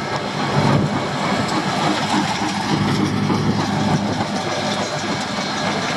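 Heavy road-construction machinery running steadily: the diesel engines of the crew's asphalt-milling and compacting equipment, a continuous engine hum under a dense mechanical clatter.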